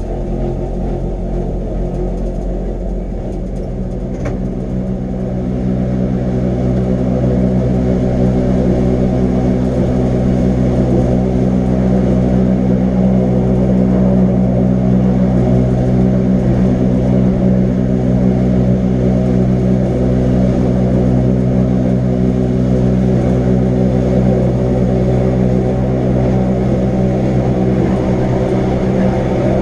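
Electric rack-railway train on the Wengernalpbahn running steadily, a drone of motor and gear hum with several steady tones, growing a little louder about six seconds in. A brief click about four seconds in.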